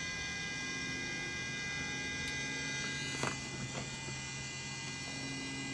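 Steady electrical hum and whine from a Cessna 172SP's electrical system, powered up on the battery master, made of several steady tones. A light click sounds about three seconds in.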